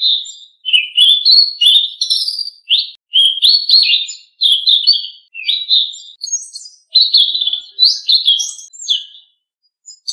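Selendang biru songbird singing: a fast run of short chirping and whistled phrases, one after another with brief gaps, pausing for about half a second a little past the middle.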